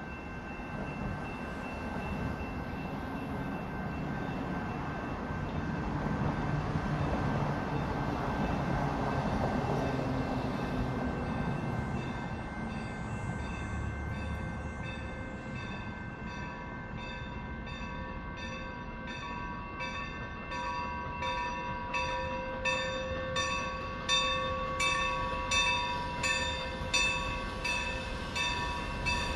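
Milwaukee Road 261 steam locomotive and its train running, with a broad rumble. From about halfway a regular ringing beat of about two strokes a second comes in, typical of the locomotive's bell being rung.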